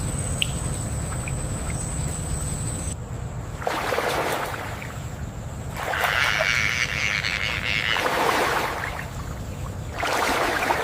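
Wetland water ambience: a low rumble with a steady high whine for the first three seconds, then several swells of rushing, lapping water-like noise, each lasting one to two seconds.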